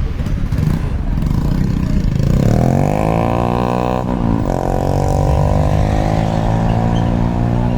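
A car engine running, then revving up about two seconds in with its pitch rising. It dips briefly about four seconds in, then climbs slowly again and drops off near the end.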